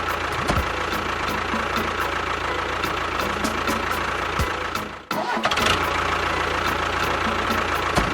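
Engine running steadily with a regular ticking rattle; it drops out briefly about five seconds in and then picks up again.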